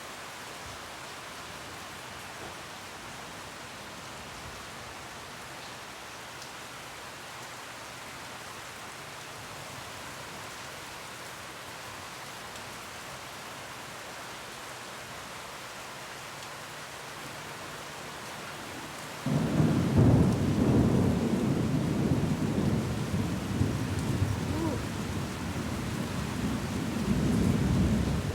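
Steady rain falling, then about two-thirds of the way in thunder breaks suddenly and loud, rumbling and wavering on for the rest of the time.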